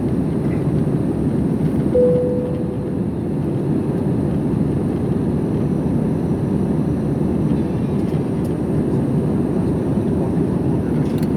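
Steady low rumble of an airliner cabin in flight, with a single cabin chime about two seconds in that fades away, the signal for the seatbelt sign being switched off.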